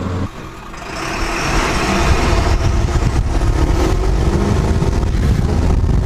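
Ford Super Duty's 7.3 Powerstroke turbodiesel V8 running through a 4-inch straight-pipe exhaust. It is a steady, loud low rumble that builds over the first couple of seconds after a brief dip.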